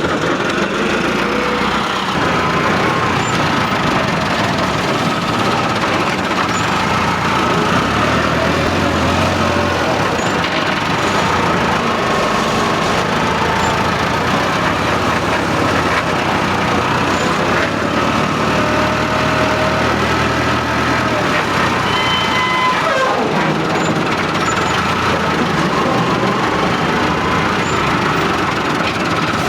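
Heavy diesel engine running steadily, as on a tractor or loader at work loading clay, with a brief falling tone about three-quarters of the way through.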